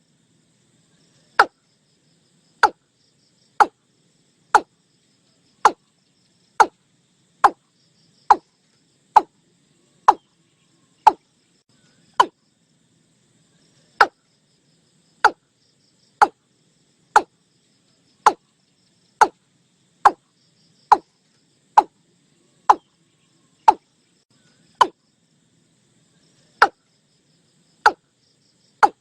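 Watercock calling: a long series of short, sharp single notes, about one a second, each dropping slightly in pitch, with a couple of brief pauses in the run.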